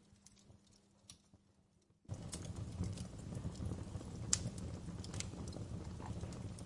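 Wood fire crackling in a fireplace, with scattered sharp pops and snaps. It is faint and sparse for the first two seconds, then turns suddenly louder, with a dense low rumble and frequent pops.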